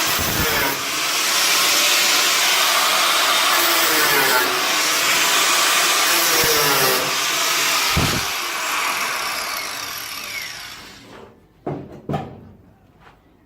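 Angle grinder cutting into car-body sheet steel, running hard with its pitch wavering under load, then released and spinning down with a falling whine about ten seconds in. Two short knocks follow near the end.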